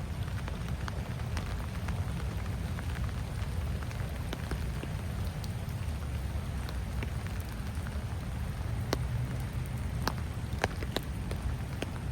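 Rain falling steadily, with scattered sharp ticks of individual drops striking close by, over a low steady rumble.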